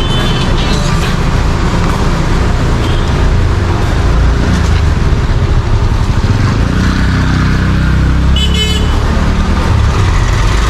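Busy street traffic: motor vehicle engines running and rumbling, with a short horn toot near the start and another about eight and a half seconds in.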